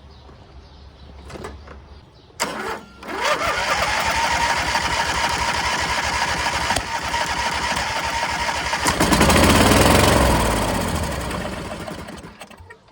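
Starter cranking a 26 hp Briggs & Stratton V-twin on a garden tractor: a click, then a steady cranking whine, with the engine firing for a couple of seconds near the end before it dies away. It fires only on gas poured down the carburettor, which seems to mean fuel is not getting to the carb; the cause is an unconnected fuel shutoff solenoid.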